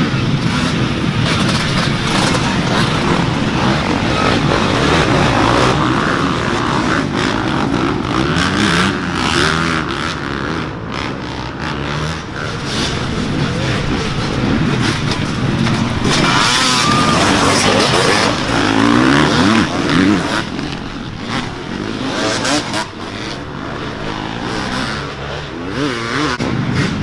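Dirt bike engines running and revving, with several rises and falls in pitch in the second half.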